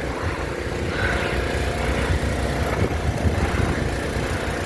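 Engine of heavy construction equipment running steadily, a continuous low rumble.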